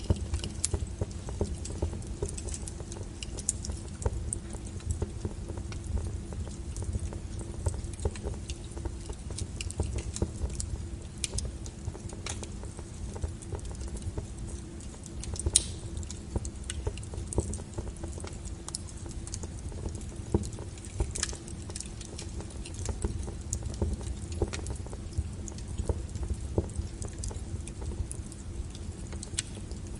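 Wood fire burning in a fireplace: irregular crackles and sharp pops over a low, steady rumble, with a few louder pops around the middle.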